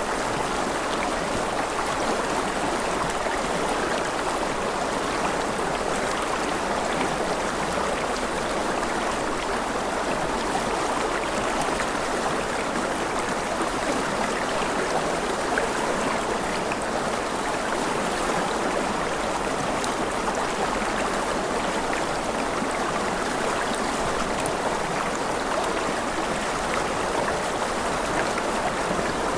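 Running water, like a stream, rushing steadily and evenly.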